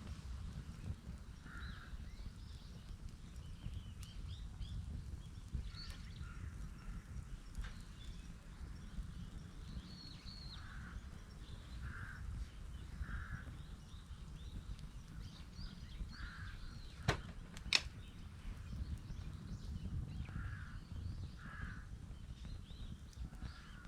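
Crows cawing off and on, short calls in twos and threes, over a steady low rumble. Two sharp pops come from the wood fire about seventeen seconds in.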